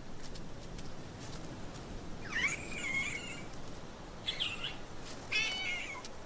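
Three short, high, wavering animal calls, about two and a half, four and a half and five and a half seconds in, over a steady outdoor hiss.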